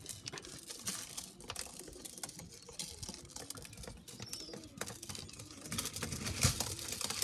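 Young pigeons pecking at grain feed: a quick, irregular run of small clicks and taps. About six seconds in, a louder rustling joins.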